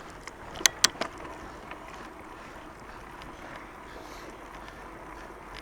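Fat bike rolling downhill on a dirt trail, a steady hiss of the wide tyres and wind on the microphone. About half a second to a second in, three sharp clacks come in quick succession.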